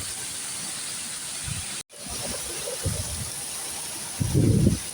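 Steady hiss of heavy rain in a storm. It cuts out for an instant about two seconds in, and a short, loud low rumble comes near the end.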